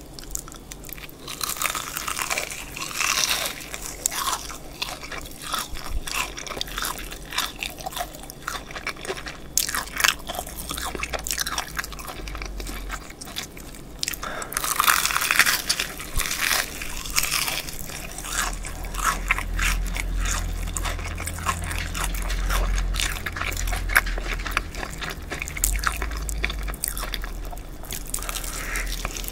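Crispy BBQ Golden Olive fried chicken drumstick being bitten and chewed close to the microphones. The fried batter crackles and crunches in thick runs with each bite, with chewing in between. A low rumble runs through much of the second half.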